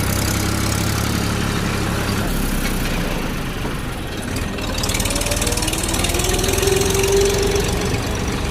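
Tractor engine running steadily, its low drone shifting slightly about two seconds in.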